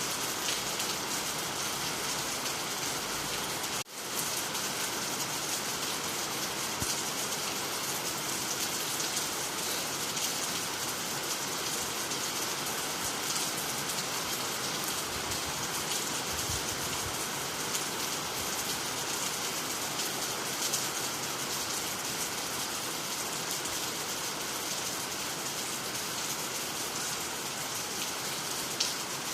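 Steady rain falling on the ground, water and nearby trees, an even hiss with no thunder. About four seconds in it drops out for a split second and then resumes.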